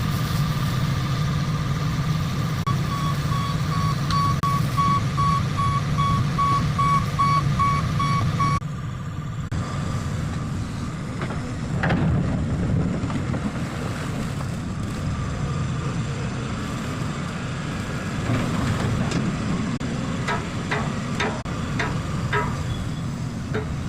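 Excavator's diesel engine running steadily, with a rapid travel or back-up alarm beeping about three times a second until it cuts off about a third of the way in. Near the end come a few sharp metallic knocks from the machine working.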